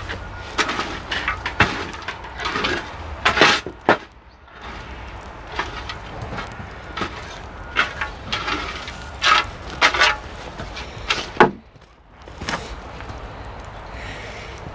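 Irregular knocks, clatters and scrapes of wood and tools being handled during garden tidying work. The loudest knocks come about three and a half and eleven and a half seconds in.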